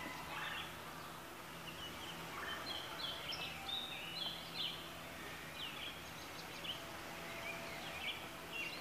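Small birds chirping and twittering in many short, high calls, some sliding down in pitch, over a faint steady low hum.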